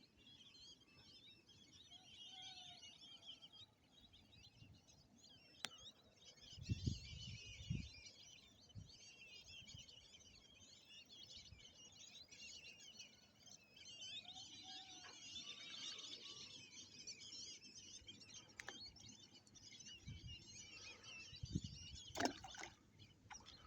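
Faint high-pitched chirping of birds, swelling and fading, with a few brief low thumps close to the microphone.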